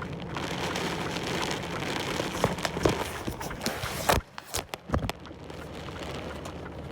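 Typhoon rain and wind heard from inside a large truck's cab, with many small crackling hits of rain. A little over four seconds in there is a sharp loud knock, after which the sound is somewhat quieter.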